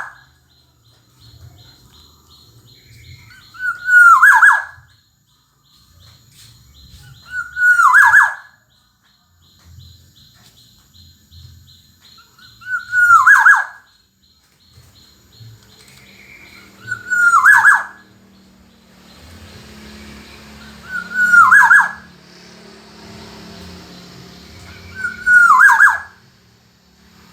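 Black-naped oriole (kepodang emas) calling: a loud, short, downward-sweeping call repeated six times, about every four seconds.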